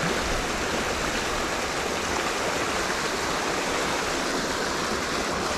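Creek water rushing steadily, an even unbroken wash.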